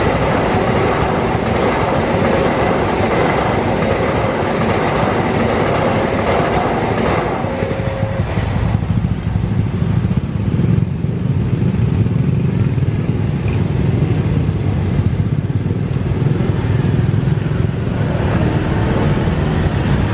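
Passenger train carriages rolling past over a level crossing, a dense rushing clatter with a steady tone over it, that ends about eight seconds in. Then motorcycle engines pull away and run as the barrier lifts and traffic crosses the tracks.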